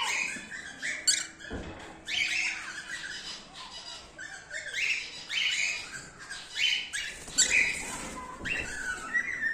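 Cockatiels squawking: short, harsh calls repeated about once or twice a second, some overlapping.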